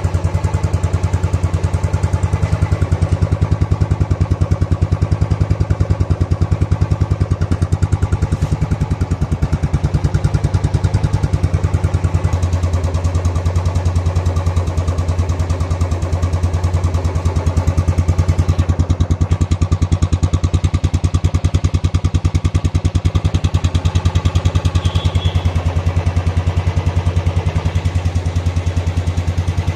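Royal Enfield Bullet's single-cylinder engine idling steadily at the silencer, its exhaust thump a fast, even pulse. The rubber exhaust tip on the silencer makes no difference to the sound.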